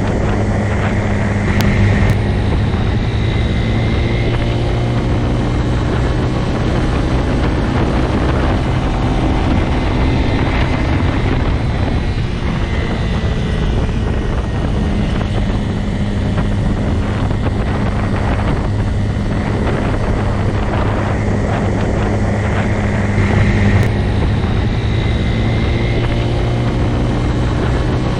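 Motorcycle engine running steadily at an even pitch, briefly louder about two seconds in and again near the end.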